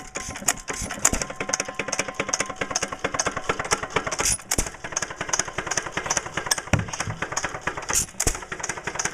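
A small gasoline engine running with a rapid, even mechanical clatter of ticks and knocks that keeps up without a break.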